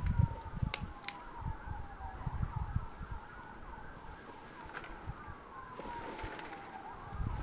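A siren wailing, its pitch sliding slowly down and back up, with shorter, quicker swoops in between. Wind buffets the microphone at the start and again near the end.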